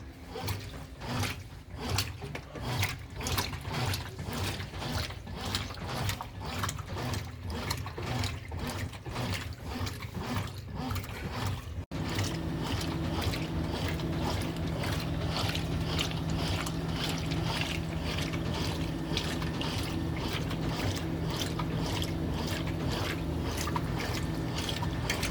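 Consul Maré 10 kg top-loading washing machine agitating, a rhythmic run of even strokes with water sloshing. About halfway it changes abruptly to the steady motor hum of the final spin.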